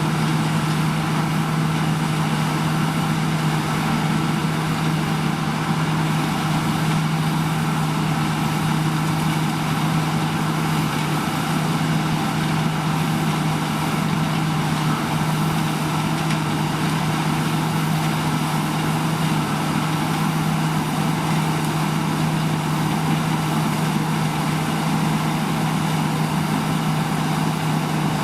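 Heavy diesel harvest machinery running at a constant engine speed, a steady unbroken drone with no revving or breaks.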